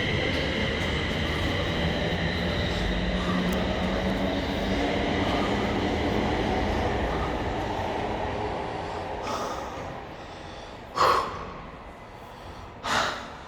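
A train running through the station: a steady rumble with a high whine, which fades away after about nine seconds. Two short, loud bursts come near the end.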